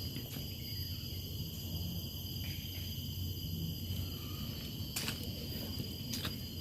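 Steady high-pitched insect chorus, several tones held together without a break, over a low rumble, with a couple of light clicks near the end.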